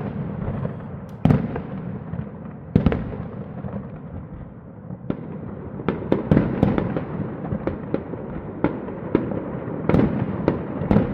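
Fireworks going off: two loud bangs with a rumbling tail in the first three seconds, then from about five seconds in a rapid, irregular run of sharp pops and bangs.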